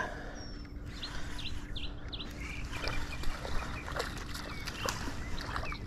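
Birds chirping: many short calls and quick rising and falling chirps scattered throughout, over a steady low rumble of wind on the microphone.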